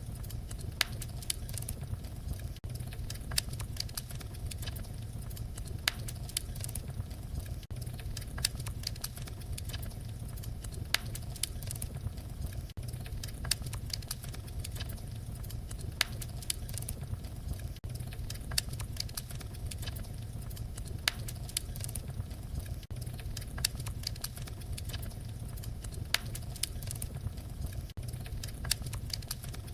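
Wood fire crackling: a steady low rumble of flames with frequent sharp pops and snaps, some louder than others, and a brief drop in level about every five seconds.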